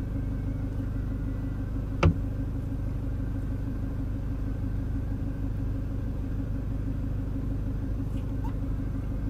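Toyota Land Cruiser Prado engine idling steadily, heard from inside the cabin, with one sharp click about two seconds in.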